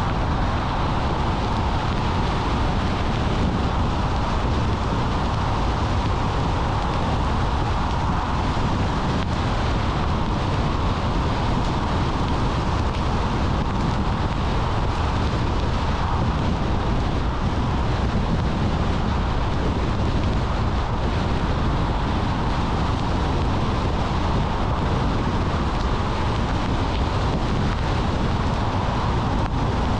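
Steady road noise of a car driving: tyre and engine noise with no change in pace.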